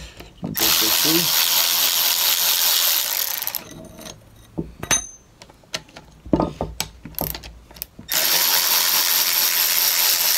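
Ratchet wrench backing out the long through-bolts of a Delco tractor starter-generator: two long stretches of fast, continuous ratcheting, with separate clicks and knocks of the tool and parts between them.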